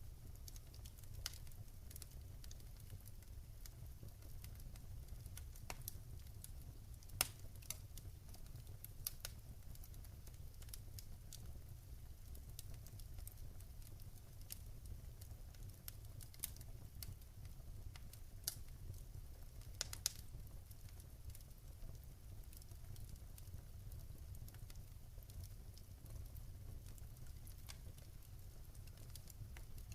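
Wood fire crackling in a fireplace: irregular sharp pops and snaps over a steady low rumble, with a few louder pops about a quarter and two-thirds of the way through.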